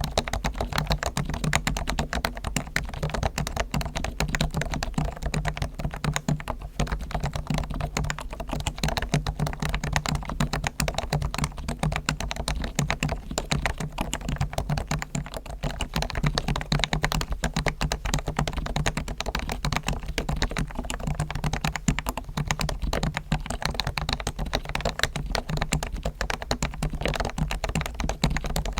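Continuous fast typing on a Topre Realforce R1 electrostatic capacitive keyboard, its springs and sliders fully lubed with Krytox and its stabilizers tuned. The keystrokes are dense and even, with a faint steady low hum underneath.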